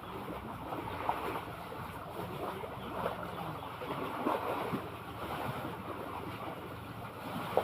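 Sea water lapping and splashing in small waves, with wind rumbling on the microphone.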